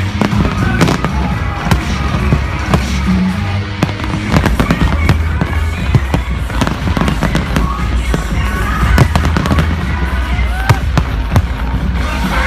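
Fireworks bursting in rapid, irregular bangs and crackles over music with a steady bass line.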